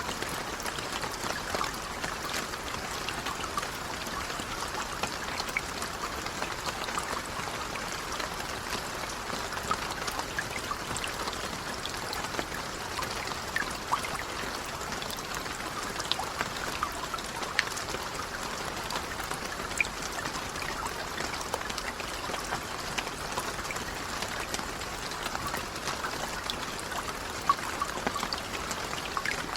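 Light rain falling steadily, an even patter with many scattered single drops ticking out a little louder.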